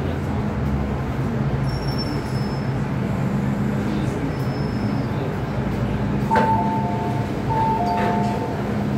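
MTR M-Train electric multiple unit running between stations, a steady rumble with a low hum. About six seconds in, after a click, a two-pitch electronic tone sounds twice.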